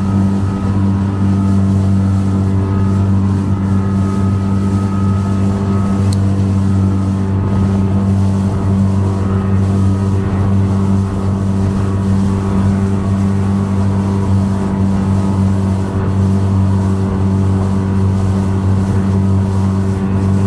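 Motorboat engine running at speed, a loud, steady drone that does not change pitch.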